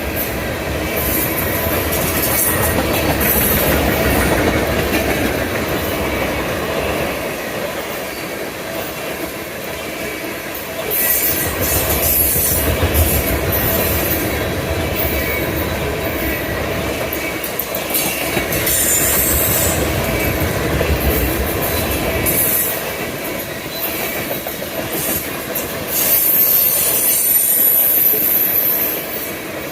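Freight train cars rolling past at close range, a steady rumble and clatter of wheels on rail, with high-pitched wheel squeal flaring up three times.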